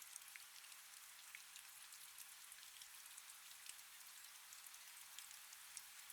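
Faint steady rain: a soft hiss with many small, sharp drop ticks scattered through it.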